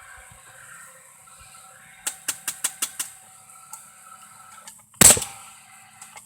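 Paslode cordless gas framing nailer: its exhaust fan whirring steadily, a quick run of about six light clicks about two seconds in, then one loud bang as it drives a nail about five seconds in.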